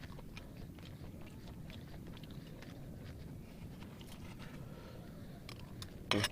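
A person chewing food close to the microphone, with many small irregular crunches and clicks.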